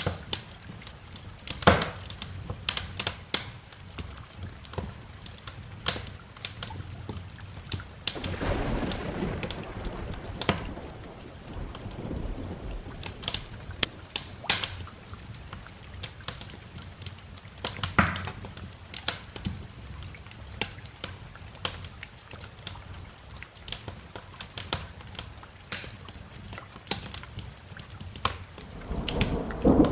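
Wood fire crackling with frequent sharp pops over a steady rain bed. A rumble of thunder swells from about eight seconds in, and another begins near the end.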